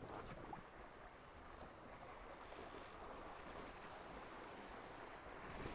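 Faint, steady rush of wind and water past a Tornado catamaran under sail, with a brief hiss about two and a half seconds in.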